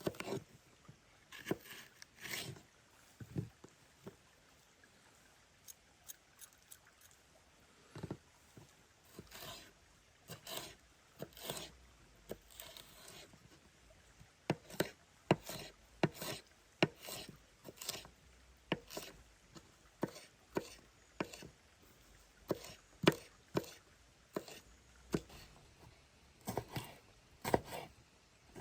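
A knife chopping on a wooden cutting board: separate knocks, irregular at first, then a steadier run of about one to two strokes a second from about halfway.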